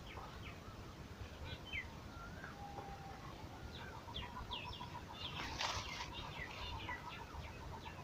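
Small birds chirping: many short, quick chirps and whistles, with a rapid pulsing call starting about halfway through, over a low steady rumble. A brief rustle a little past halfway.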